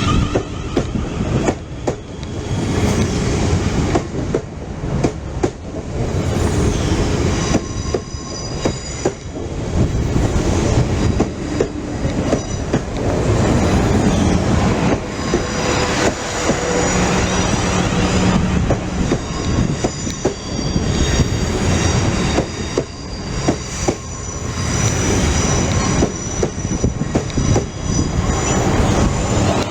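A train running close past on the line, its wheels clattering over rail joints, with a high squeal from the wheels coming and going from about eight seconds in.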